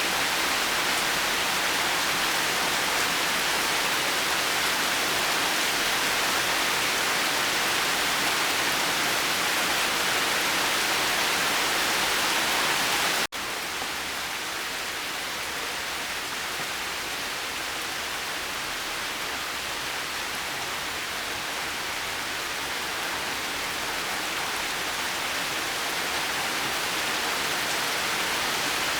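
Steady rain falling, an even hiss with no distinct drops or thunder. About 13 seconds in it cuts out for an instant and comes back slightly softer, slowly building again.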